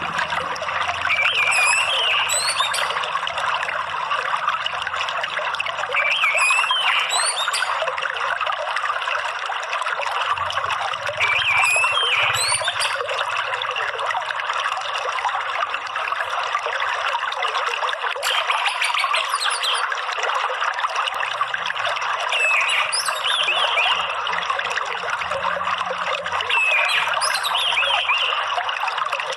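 Running water trickling steadily, with an orange-headed thrush (anis merah) giving short chirping phrases about every five seconds.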